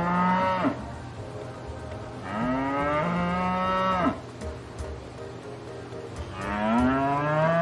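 Cow mooing: three long, drawn-out moos about two seconds apart. The first is already under way at the start, and the last runs on past the end.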